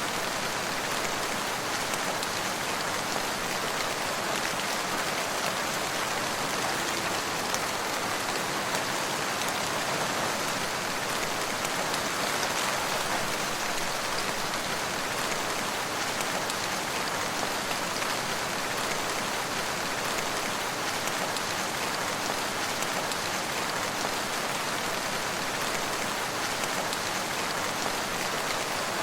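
Steady rain falling, an even hiss of countless drops with no let-up.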